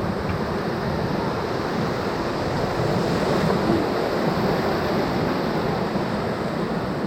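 Whitewater rapids rushing steadily around a raft, with some wind on the microphone.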